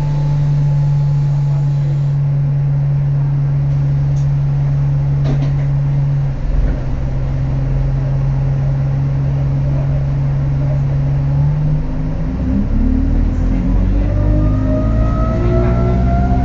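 Alexander Dennis Enviro200 bus engine running at a steady low drone, then, about twelve seconds in, accelerating with its note rising. Above it a turbocharger whistle climbs near the end, the whistle the uploader calls weird.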